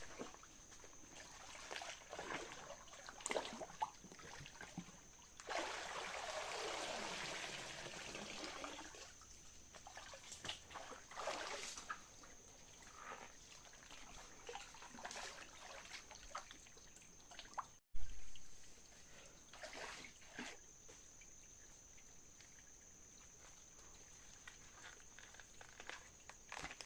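Water splashing and trickling in short spells, with one steadier stretch of pouring, sloshing water lasting about three seconds.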